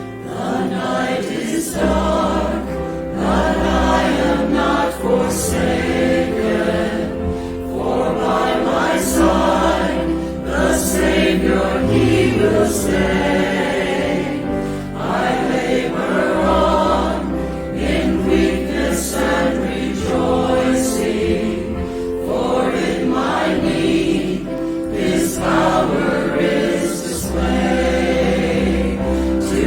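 Choir singing a hymn arrangement, with held low instrumental notes underneath.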